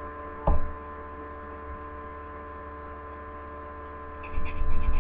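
Steady electrical hum with a single knock about half a second in; near the end, quick rhythmic rubbing strokes of a nail buffer on a fingernail start up.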